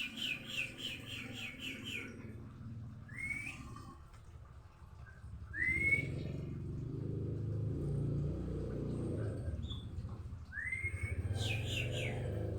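White-rumped shama (murai batu) calling: a quick run of about eight short falling notes, then single upward-sweeping whistles a few seconds apart and another short run near the end. A steady low rumble sits underneath from about halfway through.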